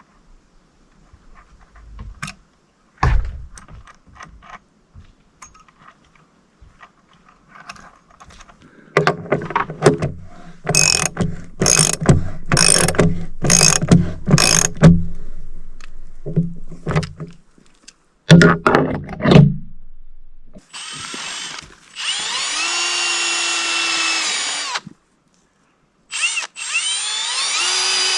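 Cordless power drill running in two bursts near the end, each spinning up with a rising whine and then holding a steady pitch. Before that comes a run of rapid, evenly spaced ratchet-like clicks, with a few knocks earlier on.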